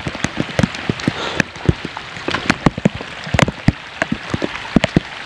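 Heavy mountain rain: a steady hiss with many irregular, sharp taps of raindrops striking close by.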